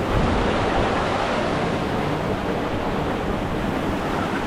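River water rushing over rapids: a steady, unbroken rush of water noise.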